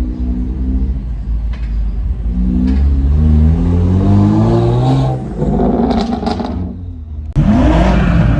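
Car engine revving: the pitch climbs steadily over a couple of seconds, then falls away. Near the end the sound cuts abruptly to another loud engine note rising and falling.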